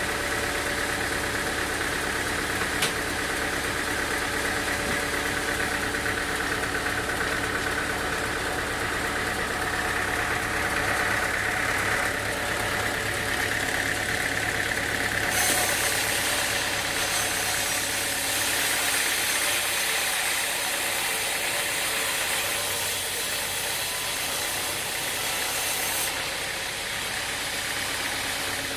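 Sawmill machinery running steadily with an engine-like hum. There is a single sharp click about three seconds in, and a high hiss joins the hum for about ten seconds from around halfway through.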